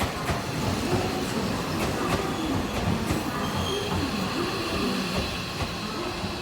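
Electric train running on the rails, wheels clicking over rail joints, with a faint high squeal of wheels on rail.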